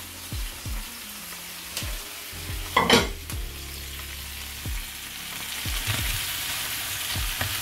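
Chicken, peppers and sliced chouriço sizzling as they fry in a hot pan, with one loud clack about three seconds in as the chouriço goes in, then tongs stirring the food. The sizzle grows louder near the end.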